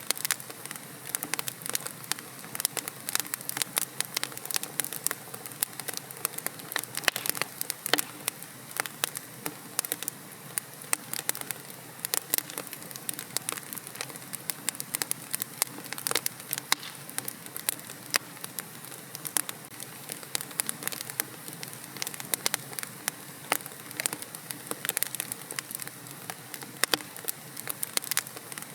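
Wood fire burning in a fireplace, crackling with many irregular sharp pops over a steady soft hiss.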